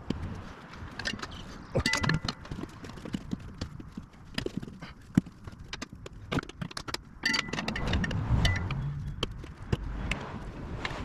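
Steel tire spoons levering a motorcycle tire's bead over the wheel rim: irregular knocks and clacks of metal on the rim, some with a short metallic ring. There are heavier thumps about eight seconds in.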